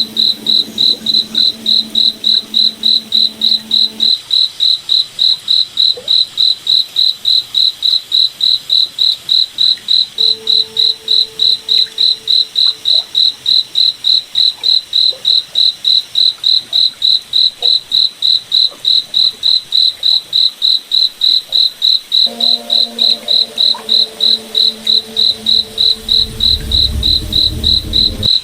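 Crickets chirping steadily in an even, high-pitched rhythm of about three chirps a second. A faint low hum sits underneath for the first few seconds and again near the end, where a low rumble also rises briefly.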